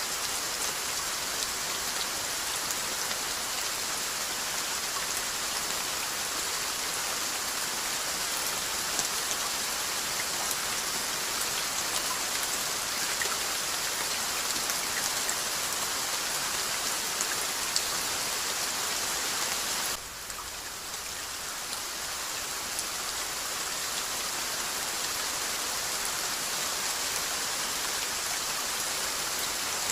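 Steady rainfall, an even hiss of falling rain with scattered individual drops ticking through it. About twenty seconds in, the rain drops suddenly in level and swells back up over a few seconds.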